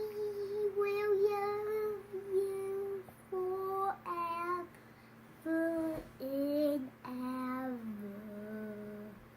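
A young boy singing a slow tune in long held notes, phrase after phrase with short breaths between, the last phrase dropping lower in pitch. A faint steady hum runs underneath.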